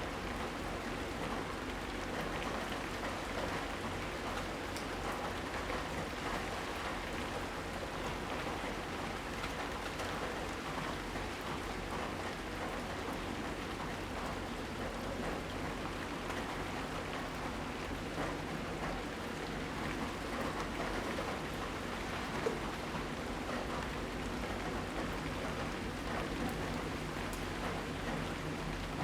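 Steady rain falling, with many small drop ticks on surfaces over an even hiss.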